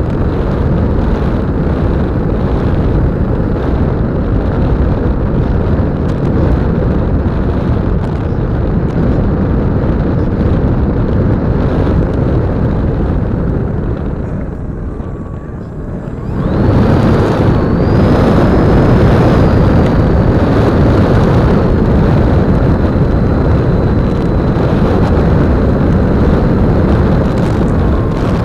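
Rush of wind on the microphone and the drone of the E-flite Apprentice 15e's brushless electric motor and propeller, heard from on board the model plane in flight. A little past halfway the noise drops away for about two seconds, then comes back louder with a faint high whine.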